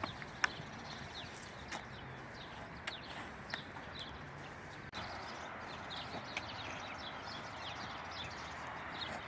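Small birds chirping, many short quick chirps a second, over a steady outdoor hiss, with a few sharp knocks now and then.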